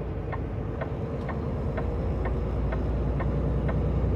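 Turn signal clicking steadily, about three clicks a second, inside a Peterbilt semi-truck's cab over the low, steady running of its diesel engine, as it merges onto the highway.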